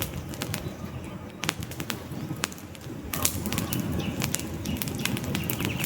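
Wood campfire crackling, with many sharp pops and snaps of burning logs over a low rumble of the flames.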